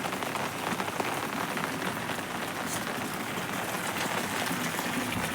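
Steady heavy rain falling and pattering on surfaces, an even hiss with many small drop impacts.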